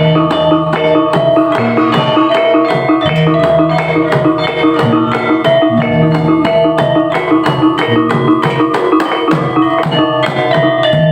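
Fast percussion music for a Topeng Ireng dance: tuned metal percussion ringing in a repeating melodic pattern over quick, steady drum strikes.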